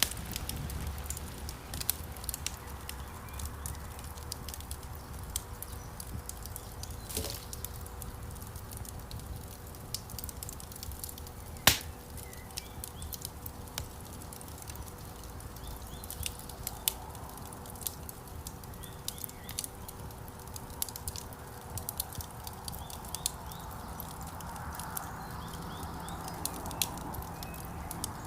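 Wood fire burning in a fireplace: a steady low rush of flames with frequent small crackles and one loud pop about twelve seconds in.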